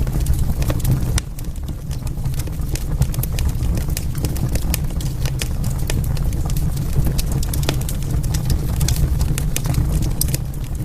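Wood fire burning in a fireplace: a steady low rumble of flames with irregular sharp crackles and pops from the burning logs. The sound drops slightly in level about a second in.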